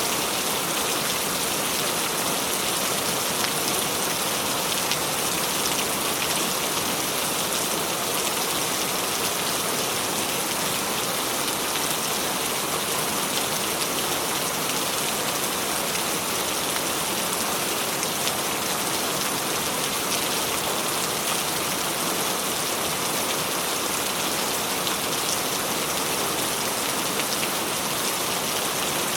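Steady rain falling and pattering on a surface, an even hiss with many small drop impacts.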